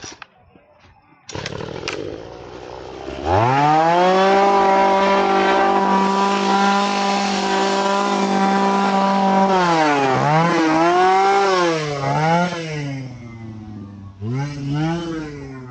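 Chainsaw engine revved to full throttle, held steady for about six seconds, then blipped up and down several times.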